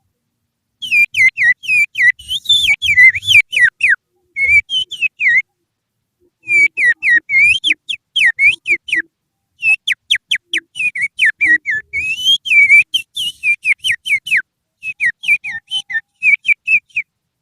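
Finger whistling imitating the song of an Oriental magpie-robin (kacer), used as a lure call to set captive birds singing. It comes as rapid runs of sharp whistled notes, many sweeping downward, in three bursts separated by short pauses.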